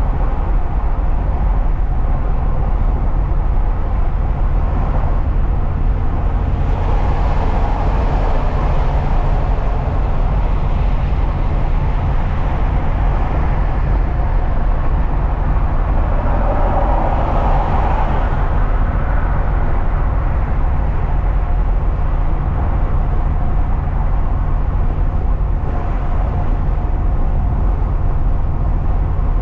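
Truck driving along: a steady low engine and road rumble, with the noise swelling briefly twice, around seven and sixteen seconds in.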